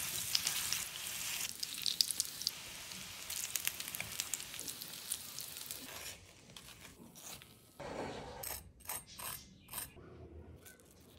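Breaded chicken cutlets sizzling and crackling in shallow oil in a frying pan. About six seconds in the sizzle stops, and a few short, crisp crackly sounds follow.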